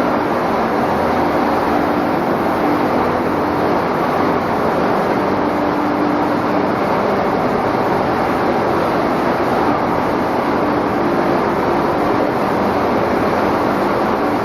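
Egg cooking and peeling production line machinery running, a loud, steady mechanical noise with a faint hum.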